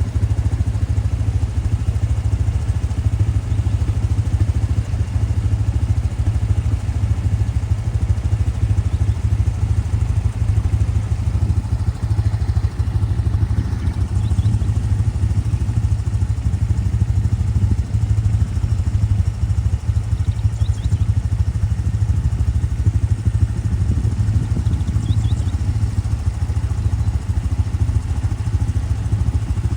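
A vehicle engine running steadily, a low rumble without change in pitch, with a few faint high chirps now and then.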